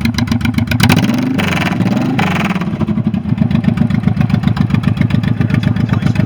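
Honda VTX 1800S's large V-twin engine blipped twice, rising and falling in pitch, then settling into a steady pulsing idle.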